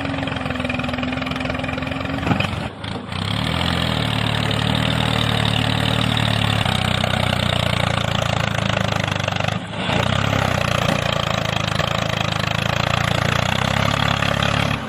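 Engine-like running sound of a mini tractor, steady throughout with two brief breaks, about three seconds and about ten seconds in.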